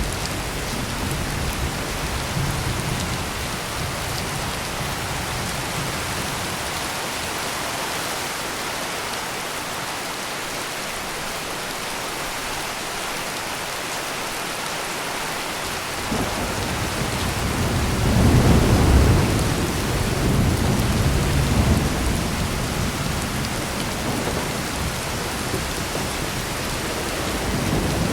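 Heavy rain pouring steadily, with rolling thunder. A low rumble fades away in the first few seconds. Another roll of thunder breaks in suddenly past the middle, swells to its loudest a couple of seconds later, then rumbles on and dies down slowly.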